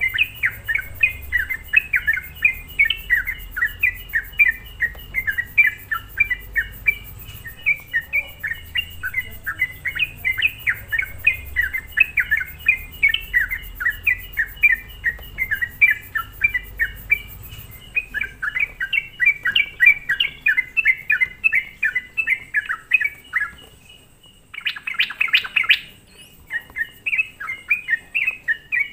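Yellow-vented bulbul (trucukan) singing lively, in a continuous run of rapid bubbling chirps. After a brief pause about 24 s in, it gives a short, dense, harsher chatter, then goes back to chirping. This is a lure song meant to provoke other bulbuls.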